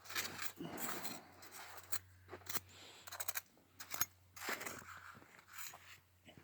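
Irregular scraping and rustling with several sharp clicks, the loudest about four seconds in, from hands and tools at work, over a faint steady low hum.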